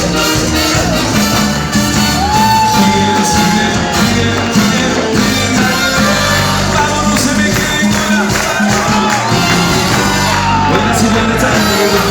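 Live Latin dance music played by a band, with a steady beat, a few sung or shouted vocal phrases and crowd cheering over it.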